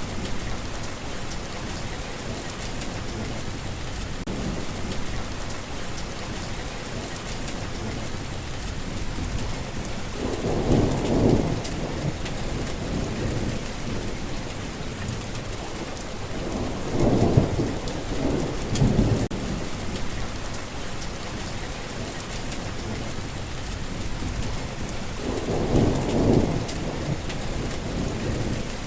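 Steady rain falling, with low rumbles of thunder three times: about ten seconds in, a longer double rumble around seventeen seconds, and a few seconds before the end.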